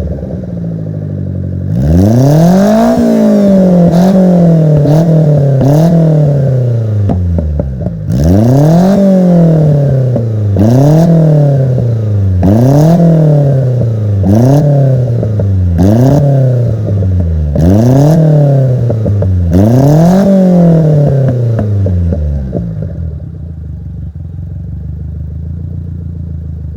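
Subaru Sambar KS4's small four-cylinder engine, running through an aftermarket HKS Silent Hi-Power muffler, idling and then revved about a dozen times in quick throttle blips. Each blip rises sharply and falls straight back, and the engine settles to a steady idle near the end.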